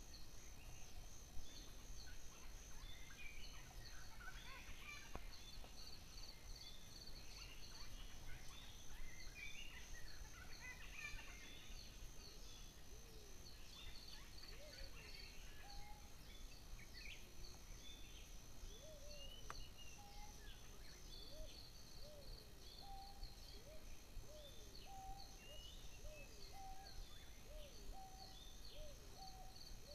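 Several birds calling in a woodland chorus, with many short high chirps over a steady, fast-pulsing high trill. In the second half, a run of short low whistled notes repeats about once a second.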